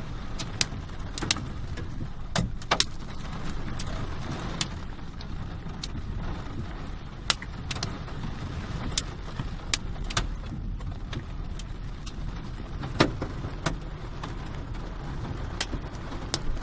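Hail falling: individual hailstones strike hard surfaces in sharp, irregular clicks, a few louder ones among them, over a steady low rumble.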